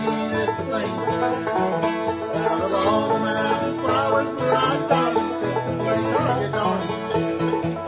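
Bluegrass music: a banjo picking rapidly with other plucked strings, played at a steady beat.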